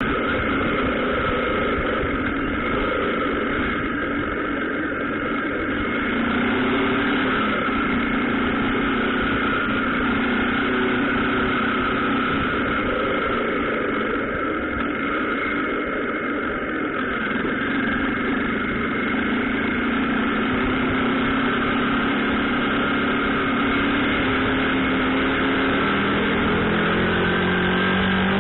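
Motorcycle engine idling steadily, its pitch starting to climb near the end as it begins to rev.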